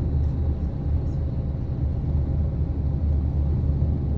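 Steady low engine rumble with an even level and no sharp events.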